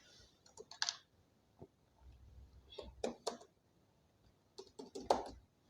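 Faint computer keyboard typing: scattered key clicks in small clusters, with short pauses between them.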